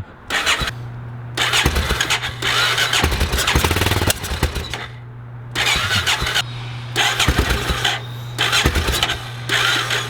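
Small 43cc gas scooter engine running with a steady hum, revved in repeated surges.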